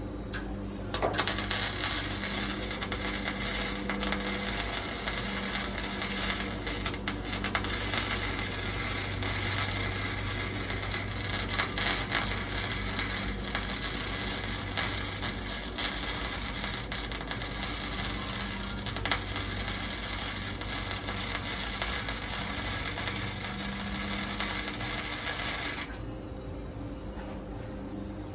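Electric arc welding on thin sheet-metal truck floor: one continuous crackling bead that starts about a second in and stops abruptly near the end, laid to fill a hole burned through the floor patch. A steady low hum runs underneath.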